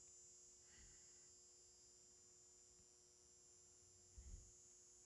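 Near silence: a faint steady electrical hum, with one soft low bump about four seconds in.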